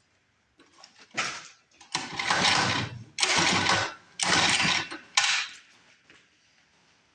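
Mini bike's small engine being pull-started: the recoil starter cord is yanked about five times in quick succession, cranking the engine over.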